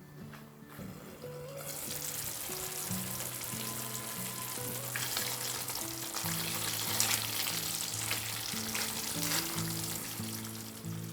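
Food sizzling and crackling as it fries in hot oil in a pan, starting about a second and a half in, with soft background music underneath.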